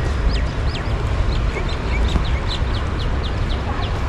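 A small bird calling a quick run of short, high, falling notes, about three or four a second, over a steady low rumble.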